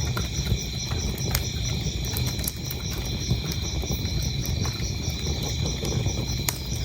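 Wood fire burning in a fireplace: a low steady rumble with scattered sharp crackles and pops, the clearest about a second in and near the end. Over it, crickets chirping steadily in a high-pitched pulse, about three chirps a second.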